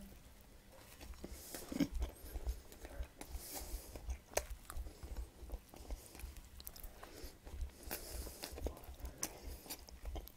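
A person biting into and chewing a mouthful of naan bread with chicken mince, with irregular small clicks of the mouth and food.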